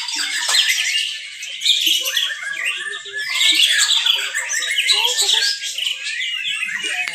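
Many caged white-rumped shamas singing at once, their loud whistles, trills and chatter overlapping into a dense chorus.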